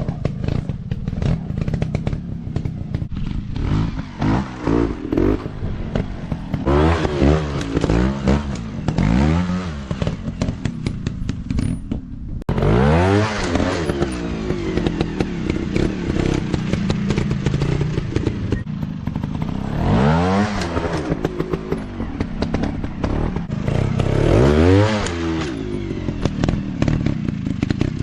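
Dirt bike engines revving in repeated bursts of throttle. The pitch sweeps up and falls back several times, with the engines running in between.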